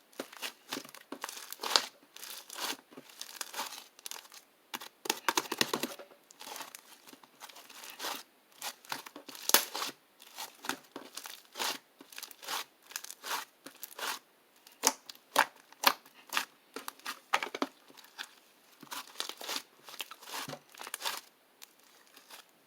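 Crinkly sheet material being handled, crumpled and torn close to the microphone, in irregular rustling bursts and crackles.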